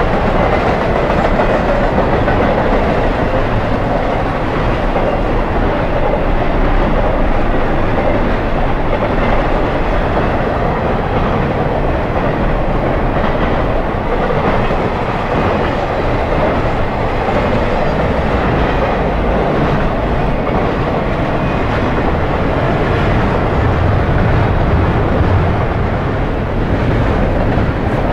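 Intermodal freight train cars rolling past at close range: a loud, steady rumble and rattle of steel wheels on the rails, with the low rumble swelling a little near the end.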